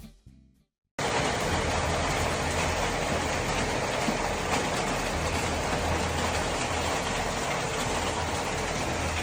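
Hail falling on streets, a steady dense hiss with a low rumble underneath, cutting in sharply about a second in after a moment of silence.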